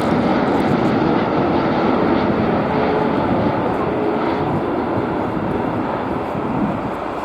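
Boeing 747's jet engines: a loud, steady rushing noise that slowly fades.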